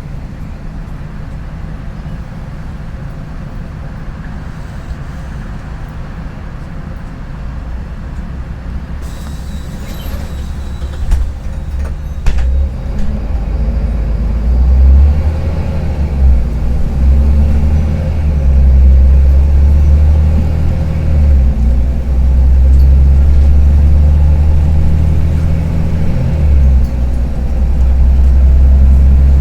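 Karsan Avancity+ articulated bus's diesel engine with a rattly tone. It runs at a steady lower level at first, a few sharp knocks come about ten to twelve seconds in, then it grows much louder and deeper as it pulls, easing off briefly twice.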